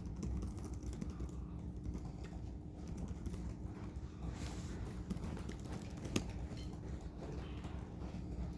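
Scattered computer-keyboard typing clicks over a steady low room hum, with one sharper click about six seconds in.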